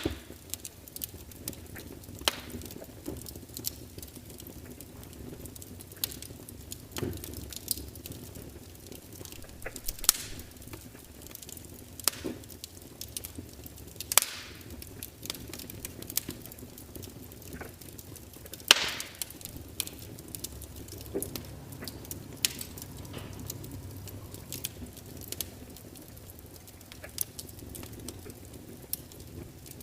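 Wood logs burning in a fireplace, crackling with irregular sharp pops and snaps. The loudest pop comes about two-thirds of the way through.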